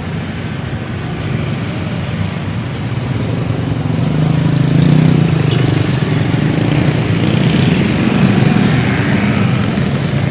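Road traffic: motor vehicle engines running past on a road, the engine hum growing louder about halfway through and again near the end.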